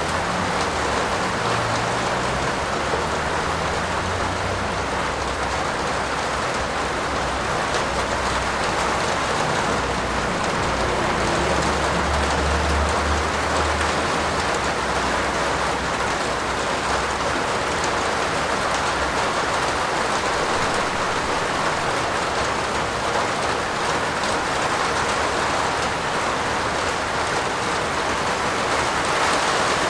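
Steady heavy rain falling on a roof, an even dense patter, with a low rumble underneath through the first half that fades out about halfway.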